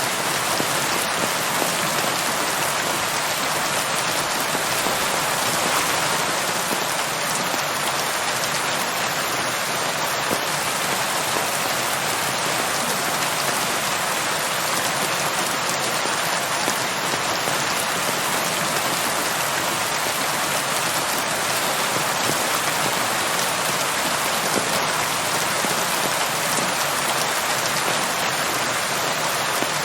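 Steady, even rain falling on a surface, a continuous hiss of many drops without gusts or thunder.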